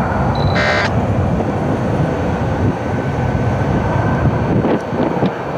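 Airbus A320's jet engines at takeoff power during its takeoff roll: a loud, steady low rumble. A short electronic chirp comes about half a second in.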